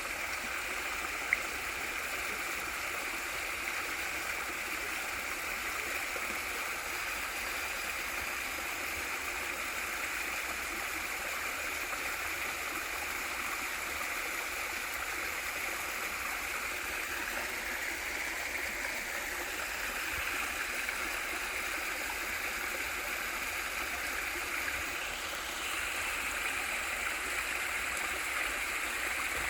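Waterfall and valley stream water rushing steadily, with one brief sharp click about a second in.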